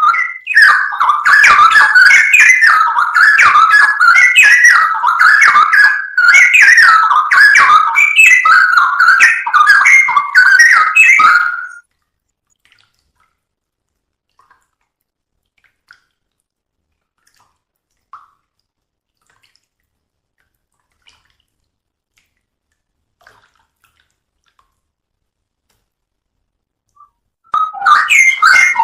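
Straw-headed bulbul (cucak rowo) singing loudly in rich, continuous warbling phrases. The song stops about 12 seconds in, leaving near silence apart from a few faint ticks, and starts again just before the end.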